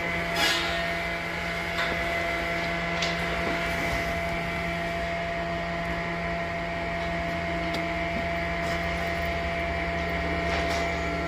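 Sawmill machinery running steadily: an even motor hum with a few faint knocks and taps, and no cut through wood.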